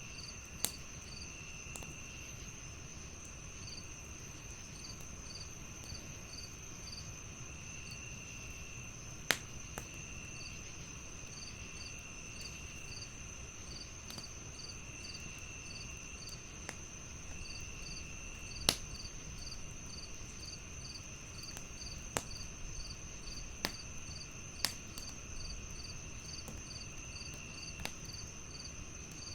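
Crickets chirping in several layers: a steady high trill, a fast pulsing chirp, and a lower trill that comes and goes. Over them a wood fire crackles with a few sharp, separate pops, the loudest about a third and two-thirds of the way through.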